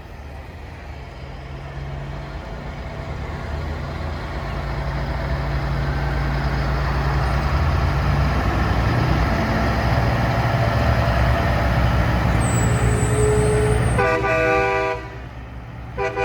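A semi truck's engine rumbling louder as it approaches, then a truck horn blowing twice near the end: a short blast, and a second one that starts just before the end.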